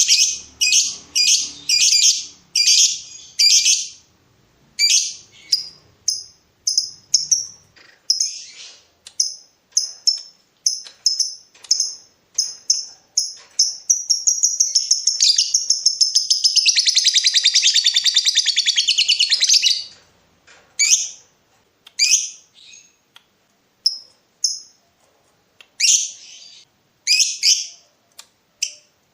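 A lovebird calling with sharp, shrill, repeated chirps. About 14 seconds in it breaks into one long, rapid chattering trill of about six seconds, the long 'ngekek' that keepers prize, then goes back to single chirps.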